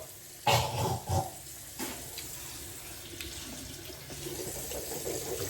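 Water running steadily, with a few knocks in the first two seconds.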